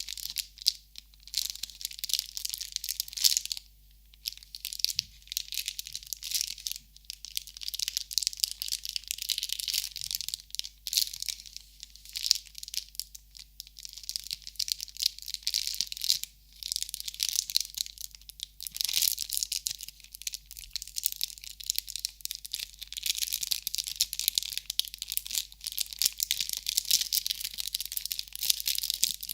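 Continuous close crinkling and crackling of crinkly material being handled, with short lulls about four seconds in and about halfway through.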